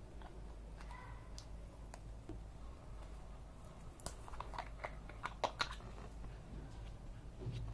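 Scattered small clicks and taps, like small objects being handled, bunched together around the middle, over a low steady hum.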